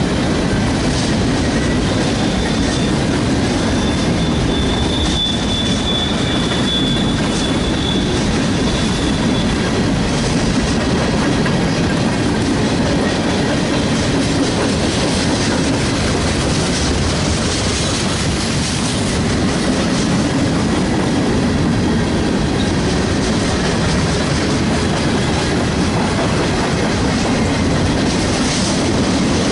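Train rolling past, its wheels clacking over rail joints in a steady loud rumble. A thin high wheel squeal sounds for several seconds near the start.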